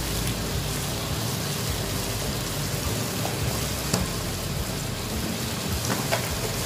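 Onion-and-tomato masala sizzling in oil in a cooking pot, a steady frying hiss, with a couple of faint clicks about four and six seconds in.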